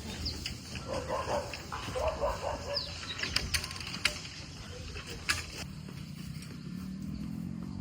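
Birds chirping, with a few short clicks and knocks; a low, steady droning hum comes in near the end.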